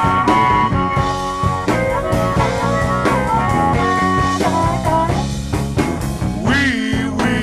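Blues band playing, with bass and drums keeping a steady beat under electric guitar and a lead line of long held notes, one of them bent and wavering near the end.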